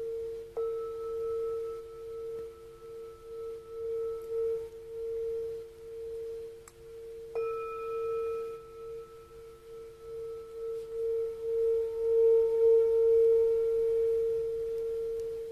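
Singing bowl ringing with a slow wavering pulse in its tone. It is struck again about half a second in and once more about seven seconds later, each strike bringing in fresh, higher overtones.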